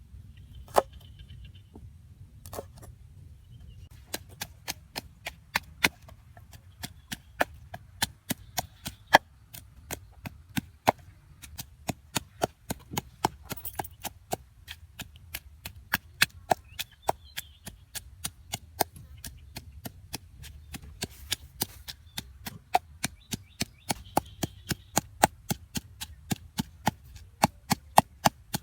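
Knife chopping on a wooden cutting board: two single strokes, then a steady run of sharp chops at about three a second.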